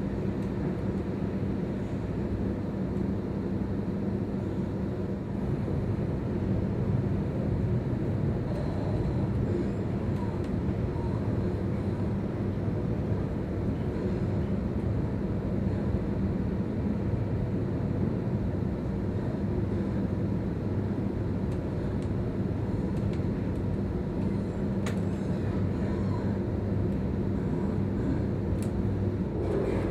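Sydney suburban electric train running, heard from inside the carriage: a steady low rumble with a constant hum.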